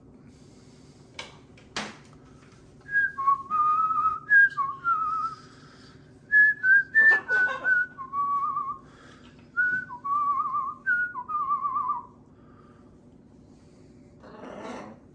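Whistling: a string of short warbling notes, hopping between a higher and a lower pitch like a little tune, for about nine seconds. Two sharp clicks come before it.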